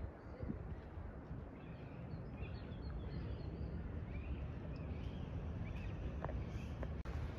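Small birds chirping, short high chirps over a steady low outdoor rumble.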